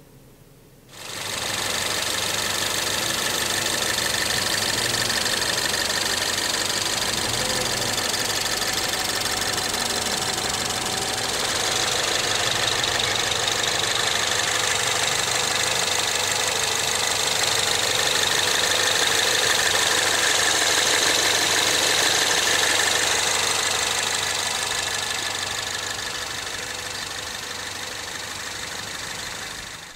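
2013 Ford Fusion's 2.0-litre EcoBoost turbocharged direct-injection four-cylinder idling steadily, heard at the open engine bay. The sound starts abruptly about a second in and eases a little near the end.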